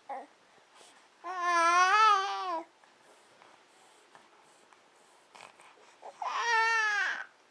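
Baby babbling: two drawn-out vocalizations with a wavering pitch, the first about a second in and lasting over a second, the second near the end.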